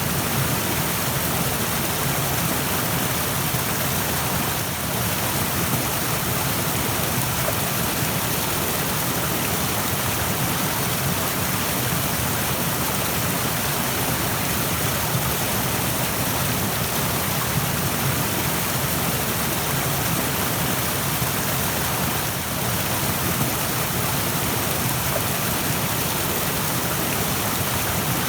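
Rushing stream: a steady, dense wash of flowing water with no pauses or changes.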